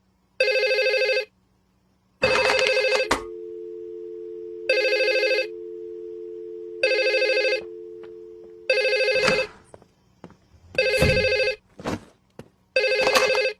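Telephone ringing: seven short electronic rings about every two seconds, with a steady two-note hum under the middle rings and a few knocks in the second half.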